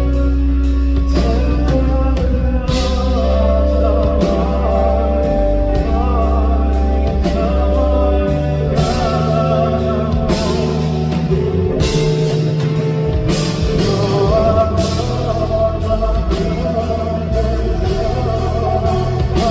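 Live pop-rock band playing with a male lead vocal, drum kit and guitar, at concert volume with a steady beat of drum hits.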